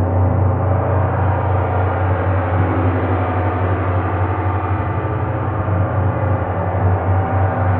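A gong played continuously, giving a steady, dense ringing wash of overlapping tones over a deep hum, with no separate strikes standing out.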